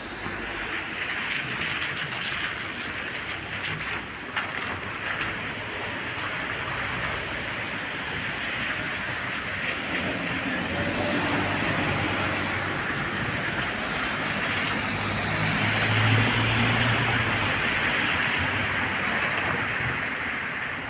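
Steady rain falling, with a few sharp drip ticks in the first few seconds. A vehicle swells up over the rain on the wet street, loudest about three quarters of the way through, then fades.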